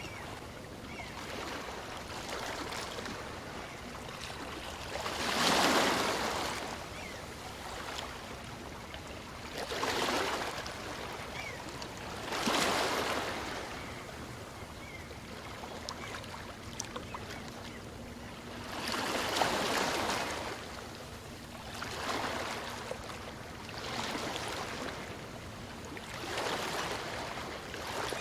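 Small waves on a calm sea breaking and washing up a beach, a surge of surf every few seconds over a steady hiss of water, the loudest about five and a half seconds in.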